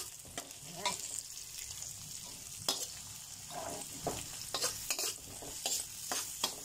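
Sliced onions and garlic sizzling in hot olive oil in a wok, with a steady hiss, while a spatula stirs them and scrapes and clicks irregularly against the pan.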